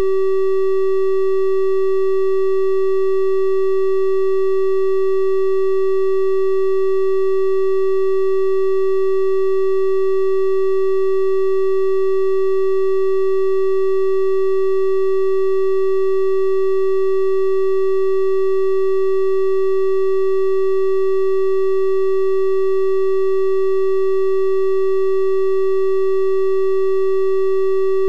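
Steady electronic test tone: a 384 Hz triangle wave, one unchanging pitch with faint higher overtones.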